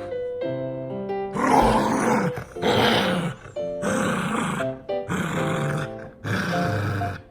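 A Spitz dog growling in repeated short bursts during tug play over a ball. It is a play growl from excitement, not anger. Background music plays under it.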